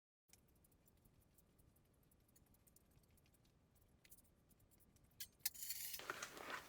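Faint scattered clicks of small objects being handled, then a sharp click near the end followed by a short stretch of rustling.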